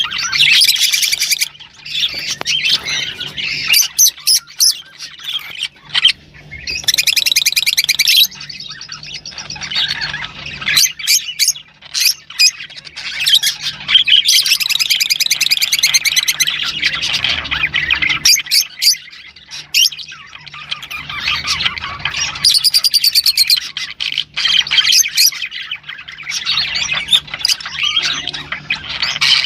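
A group of rosy-faced lovebirds chattering with shrill squawks, chirps and rapid trilling warbles, in spells broken by short pauses, over a faint steady low hum.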